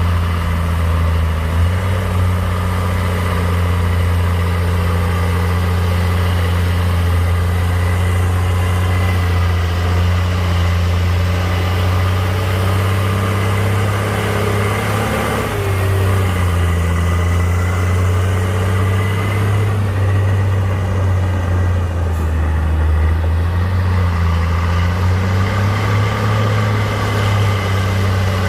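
Heavy diesel engine of an earthmoving machine running steadily with a deep hum, its pitch briefly rising then dropping about halfway through and dipping and recovering again past three-quarters of the way.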